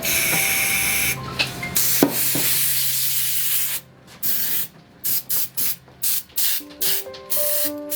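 Aerosol spray paint can spraying: one long continuous hiss for about four seconds, then a series of short quick bursts.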